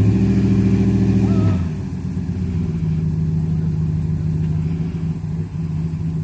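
Pickup truck engine revving hard as it pulls on a tow strap, then easing off about a second and a half in to a steady, lower run.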